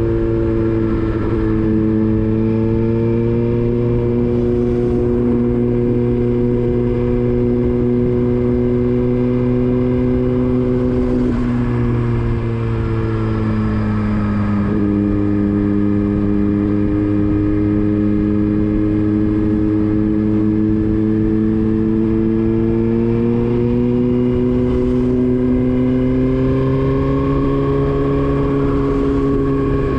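Motorcycle engine running steadily while riding. The engine note drops about twelve seconds in, then climbs slowly through the second half as the bike picks up revs.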